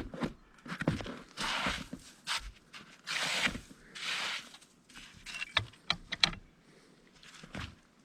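Snow crunching and scraping in short bursts, about one a second, then a few sharp clicks a little past the middle.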